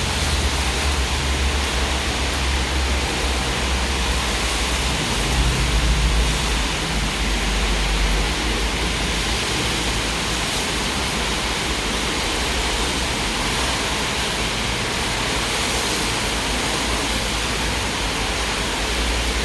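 Heavy rain pouring steadily, a dense even hiss. A strong low rumble sits under it for the first several seconds and fades out after about eight seconds.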